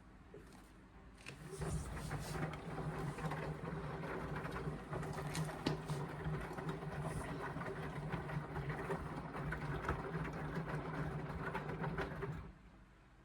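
Indesit washing machine's drum turning during the wash, the motor humming steadily as the full load of laundry tumbles; it starts about a second and a half in and stops suddenly near the end, the drum's usual pause between turns.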